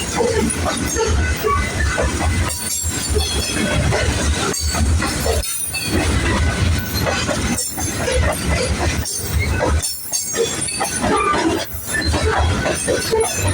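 Freight train rolling past close by: a steady rumble and clatter of wheels on the rails, with brief dips every second or two, and some high-pitched wheel squeal over it.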